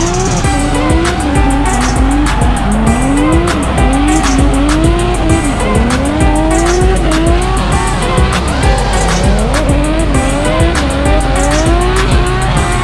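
Drifting Nissan car's engine revving hard over and over, its pitch climbing for about a second and then dropping each time, with tyre squeal, under music with a steady beat.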